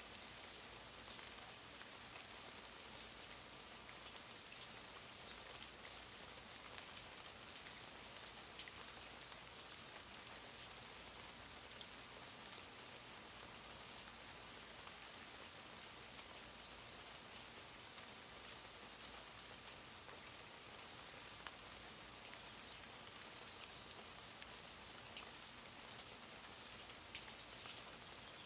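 Light summer rain falling steadily: a soft, even hiss dotted with many small drop ticks.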